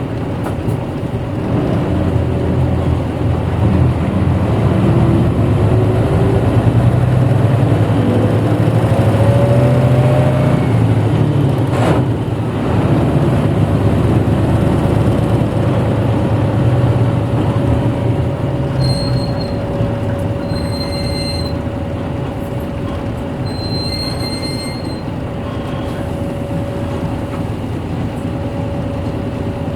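Interior running sound of a 1994 Hino Blue Ribbon city bus: its engine drones under load with a whine that rises in pitch as it accelerates, a sharp click about twelve seconds in, then a steady whine as it runs on. The engine drone eases after about eighteen seconds, and a few short high beeps sound around twenty to twenty-five seconds in.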